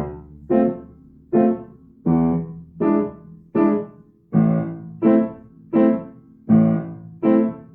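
Piano played hands together in waltz time: a low bass octave on the first beat of each of four bars, with right-hand chords on the other two beats. The chords step from F major through E7 to A minor, one attack about every two-thirds of a second.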